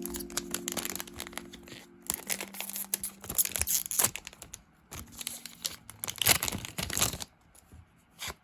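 Foil trading-card booster pack wrappers crinkling and tearing as packs are opened by hand, in a run of rustles and rips that dies away near the end.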